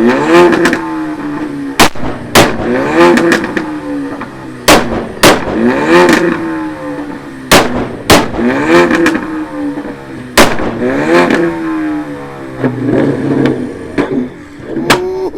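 Tuned car engine revved hard in short blips about every two and a half seconds against a two-step launch limiter. After most revs come loud, sharp exhaust cracks, often two in quick succession.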